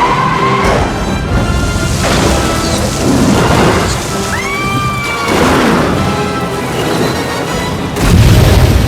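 Movie-trailer music mixed with crashing and booming sound effects, with a loud surge near the end.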